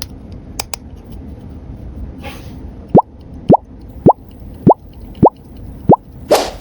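A cartoon 'bloop' sound effect: six quick, loud pops, each rising in pitch, evenly spaced about 0.6 seconds apart, starting about halfway in. A few faint clicks come before them, and a short hiss near the end.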